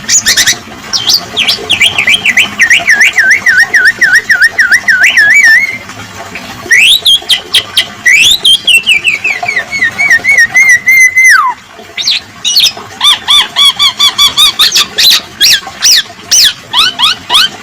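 Songbird singing a loud, varied song: long wavering trills that slide down in pitch, a rising warble about halfway that falls away and breaks off suddenly, and bursts of rapid chattering clicks near the start and end.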